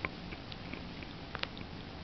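A cat kicking and pawing at a ball: a sharp tap just at the start, two quick taps close together about a second and a half in, and light scratchy ticks between.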